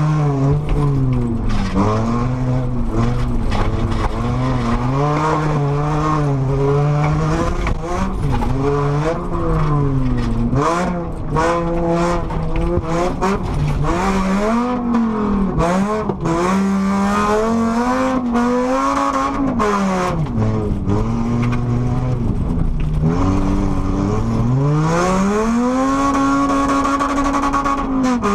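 Volvo car's engine heard from inside the cabin under hard driving, the revs rising and falling again and again through gear changes and corners, then climbing and holding high near the end. Sharp knocks and rattles from the rough dirt track come through, mostly in the middle.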